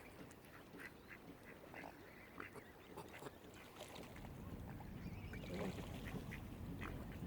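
Waterfowl calling: many short, scattered calls. A low rumble grows louder about halfway through.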